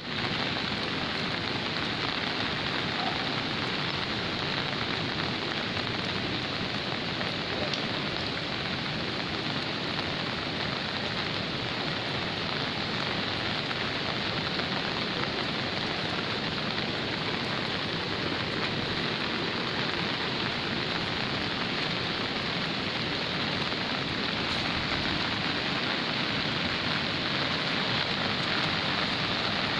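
Steady, even rush of water during a flash flood, with no breaks or distinct splashes.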